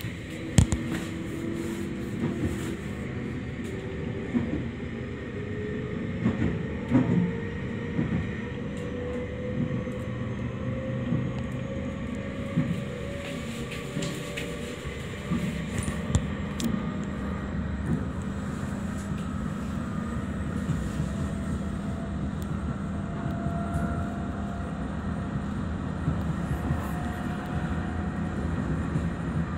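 Running noise inside an electric local train as it picks up speed: a motor whine rises steadily in pitch over the first fifteen seconds or so, over the rumble of the wheels on the rails. Several sharp knocks sound now and then.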